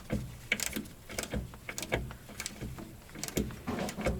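A string of irregular light clicks and knocks, about one every half second, as of hands and tools working on the car.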